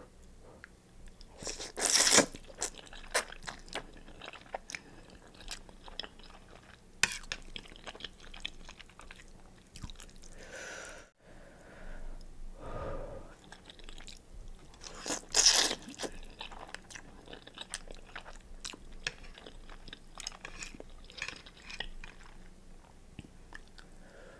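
Close-miked eating: chewing and crunching with many wet mouth clicks, with two louder bursts about two seconds in and again near the middle.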